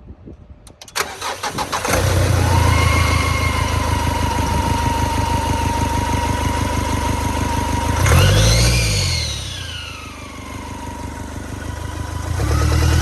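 2007 Nissan Pathfinder's 2.5-litre four-cylinder turbo diesel cranks for about a second and fires up, then idles steadily with a high whine over it. About eight seconds in it is revved once, the whine rising and falling with the revs, and a second rev begins near the end.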